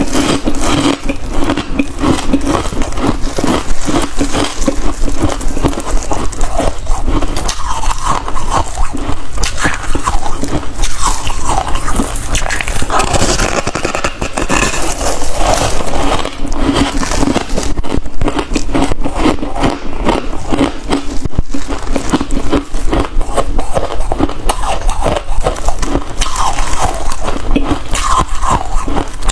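Freezer frost being bitten and chewed: a loud, dense run of crunches and crackles that goes on without a break.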